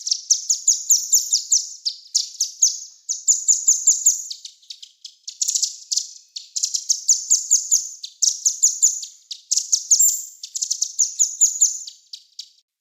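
Small songbird singing rapid, high-pitched trills of quick down-sweeping notes, about seven a second, in phrases of one to two seconds with short breaks between them.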